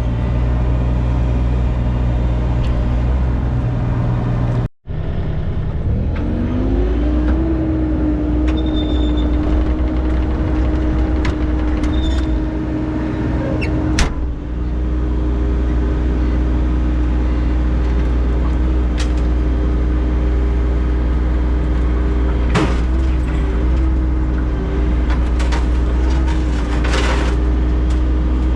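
A heavy-equipment engine, likely that of a digging machine, runs steadily. About six seconds in it throttles up and holds a higher, steady pitch. A few sharp knocks and scrapes sound over it.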